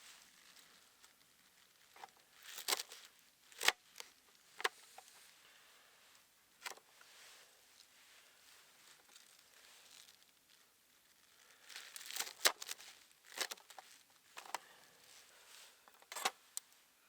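Intermittent crinkling and rustling with a few sharp light knocks: objects being handled by hand, in quiet clusters separated by pauses.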